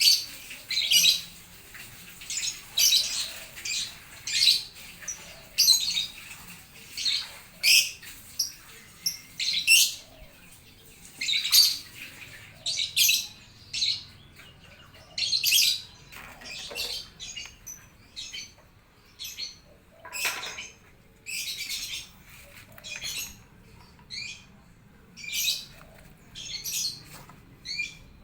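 Birds chirping, calling back and forth: a long run of short, sharp, high-pitched chirps, about one or two a second.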